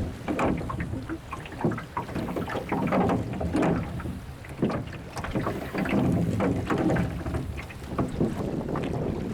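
Water splashing and lapping around a small rowing boat on a lake, in irregular strokes, over a low rumble of wind on the microphone.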